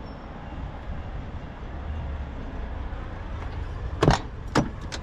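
Steady low engine rumble from vehicles in a truck lot, with two sharp knocks close together about four seconds in.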